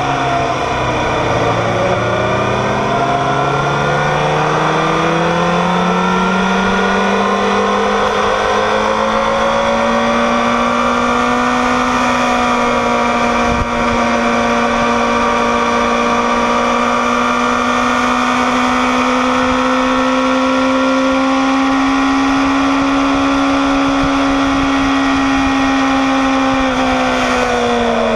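Kawasaki ZX-6R's inline-four engine with wind rush, heard from the rider's seat on a race track. The pitch dips at the start, climbs over the first few seconds and holds high and nearly steady down a long straight, with a brief break about halfway, then falls near the end as the bike slows.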